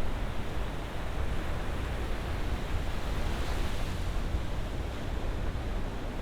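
Ocean waves breaking and washing ashore: a steady low rumble of surf, with one wash of hiss swelling a little past the middle.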